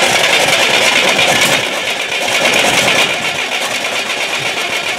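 Starter cranking the Moskvich 2140's engine, which doesn't catch. The ignition leads are crossed 180° on the distributor, which the owner finds is the fault.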